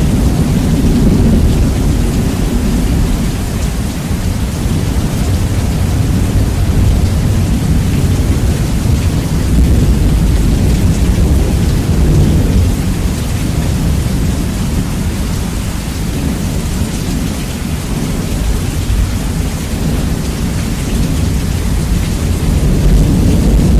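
Heavy rain with rolling thunder, bass-boosted and loud, the deep rumble dominating over the hiss of the rain. The rumble swells near the start, again around halfway, and near the end.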